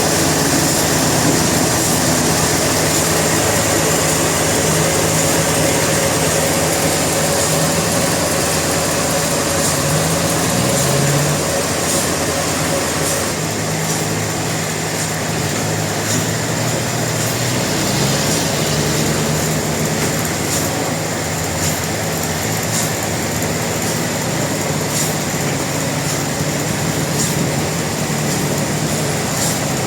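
Sawmill machinery running steadily: an engine note with a constant hiss over it, the engine's pitch shifting a little about ten seconds in and again later.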